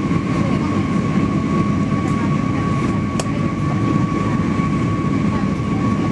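Airliner cabin noise in flight: a steady low rumble of engines and rushing air, with a thin steady whine running through it. There is a single faint click about three seconds in.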